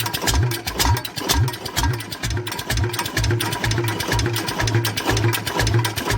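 Old single- or twin-cylinder stationary engine running steadily, with a regular low beat about two to three times a second and a fast light clatter of its valve gear over it.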